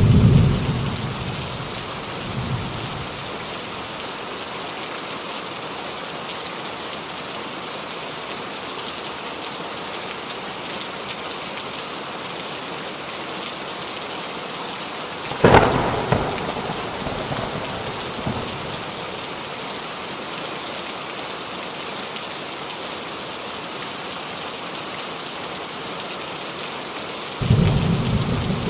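Steady rain falling on a roof, with thunder three times: a low rumble right at the start, a sharp crack and rolling rumble about halfway through, and another deep rumble near the end.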